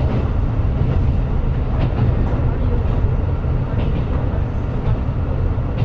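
Running noise of a KiHa 125 diesel railcar heard from inside the car: a steady low rumble of the wheels on the rails and the underfloor diesel engine, with a few faint clicks.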